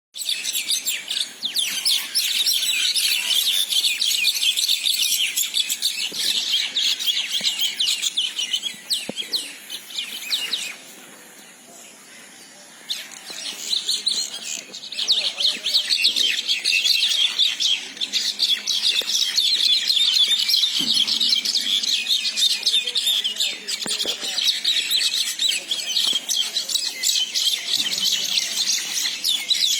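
Small birds chirping rapidly and without a break in a squabble, with a short lull about a third of the way through.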